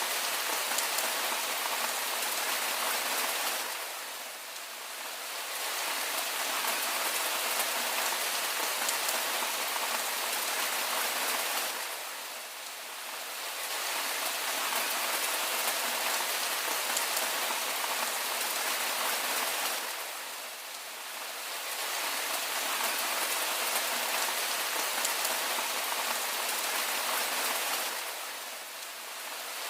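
Steady rain falling, an even hiss that eases slightly for a moment about every eight seconds.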